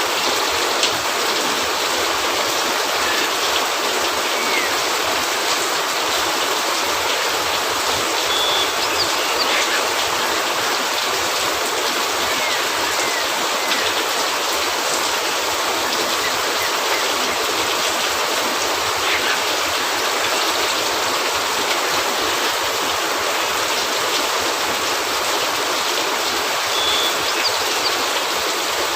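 Heavy rain falling steadily on a cabin roof: a dense, even hiss, with a few faint clicks.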